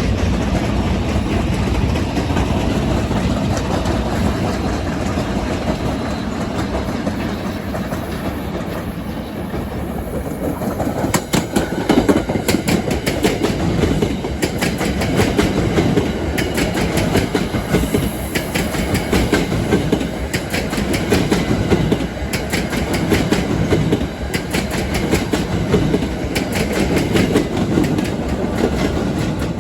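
A train passing close by, with a steady rumble of wheels on rail. About a third of the way in, the wheels start clicking sharply over the rail joints in quick uneven clusters, clickety-clack, and this goes on to the end.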